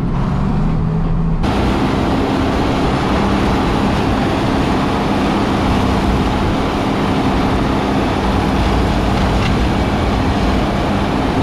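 John Deere 4430 tractor's six-cylinder diesel engine running steadily under load, with a loud rushing noise that starts suddenly about a second and a half in and then holds steady.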